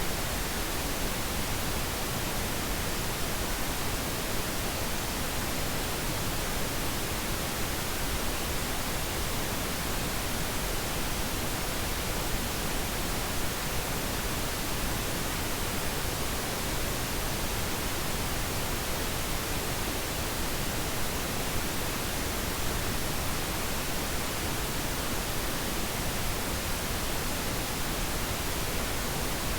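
Pink noise: a steady, even hiss spread across all pitches, with no changes or breaks, played as a sleep aid.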